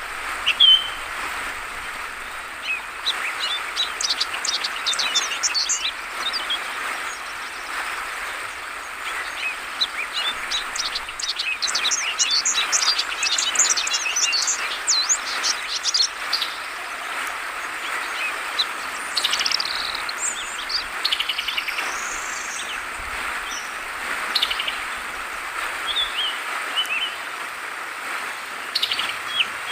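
Yellow-vented bulbuls (trucukan) chirping in several bursts of quick high notes, over the steady rush of flowing water.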